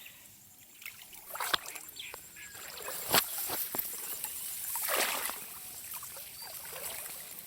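Water splashing and trickling as a fishing net is handled and fish are taken from it, with a few sharp knocks. The loudest splash swells up about five seconds in.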